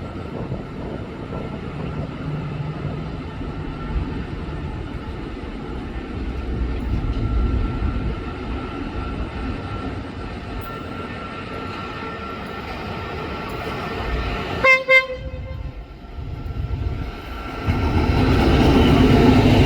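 QSY-class diesel-electric locomotive approaching with a steady low rumble, giving two short horn blasts about 15 seconds in. The train then passes close, with a loud rumble of wheels on rail near the end.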